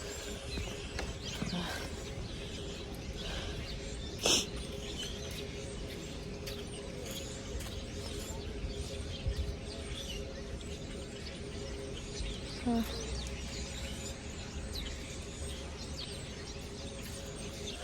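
Steady outdoor street background noise with a low rumble and a constant hum, broken by one sharp knock about four seconds in.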